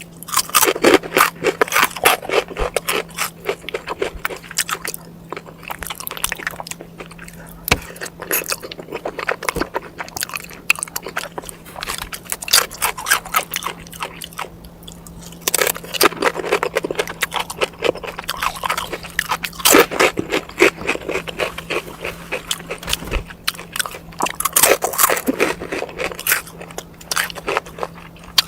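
Close-miked chewing and crunching of crisp food, in spells of rapid crackly bites every few seconds with short quieter pauses between, over a faint steady hum.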